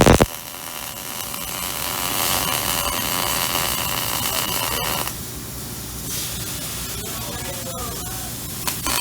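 Robotic MIG welding arc, a steady crackling hiss with a faint high whine, running for about four and a half seconds and then cutting off abruptly.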